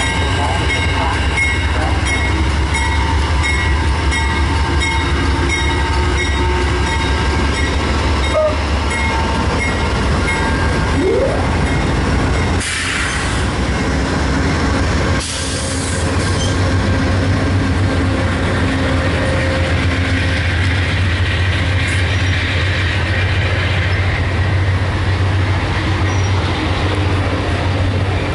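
A train rolling past on the tracks: a loud, steady rumble of wheels on rail with thin, high wheel squeal over it.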